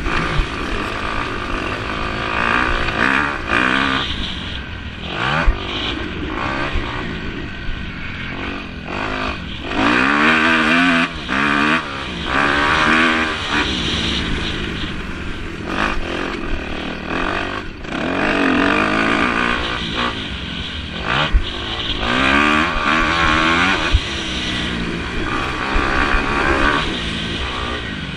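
Several motocross bikes racing, their engines revving up and falling back again and again as they accelerate, shift and pass.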